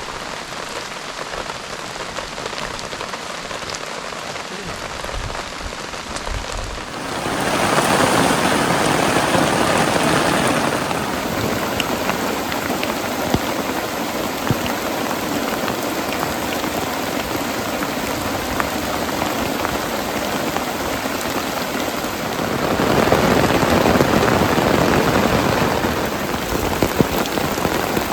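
Heavy rain falling on a tarp stretched over a tent. It comes down harder twice: about seven seconds in, and again a little past twenty seconds.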